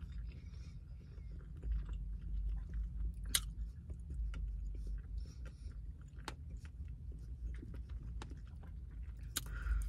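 A person chewing a mouthful of seaweed-wrapped sushi roll close to the microphone: soft, wet mouth clicks and smacks at an uneven pace.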